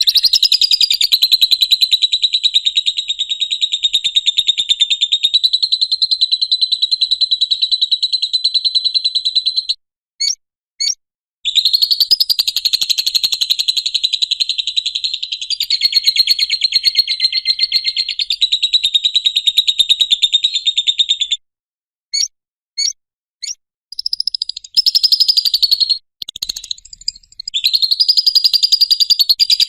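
Lovebird 'ngekek' song: a long, fast, unbroken chattering trill that runs for about ten seconds at a stretch. The runs are broken by pauses holding a few short single chirps, at about ten seconds in and again at about twenty-two seconds.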